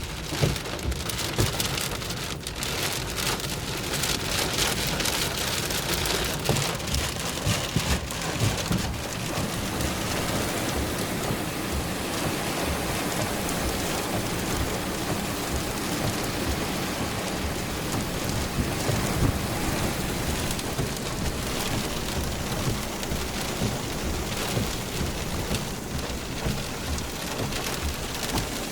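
Heavy thunderstorm rain pelting a car's roof and windows, heard from inside the car, over a low rumble of strong wind gusts buffeting the car. The patter of drops is densest and sharpest in the first eight or nine seconds, then settles to a steady downpour.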